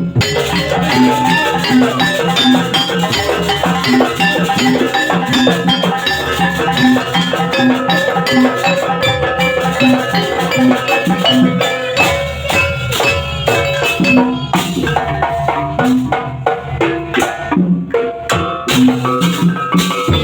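Banyuwangi barong accompaniment music: drums and ringing metal percussion over a steady repeating beat.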